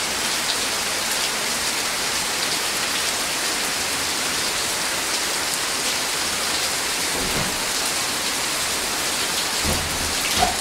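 Steady rain falling, an even hiss with scattered drop ticks. Near the end a brief low rumble and a sharp knock.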